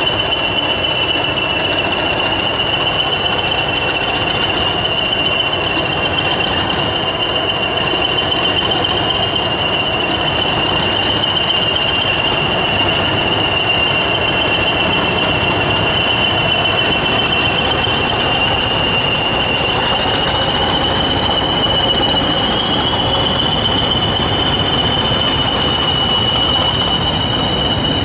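Train of coaches hauled by two Class 20 diesel locomotives passing on a curve, their English Electric engines running, with a loud, steady high-pitched wheel squeal throughout; a second, slightly higher squeal joins near the end.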